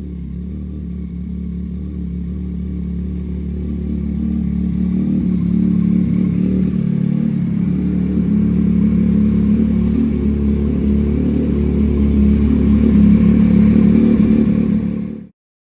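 Yamaha MT-09 SP three-cylinder engine running through an Austin Racing exhaust with an open DNA air filter. It is very loud and gets louder over the first several seconds, holding high before cutting off suddenly near the end.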